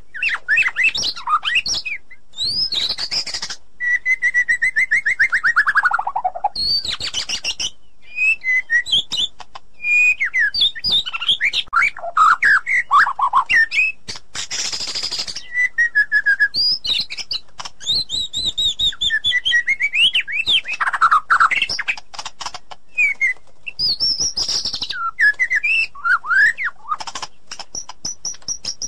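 White-rumped shama (murai batu) singing: a continuous run of varied whistled phrases, sweeping notes and fast trills. About four seconds in comes a long trill that falls steadily in pitch.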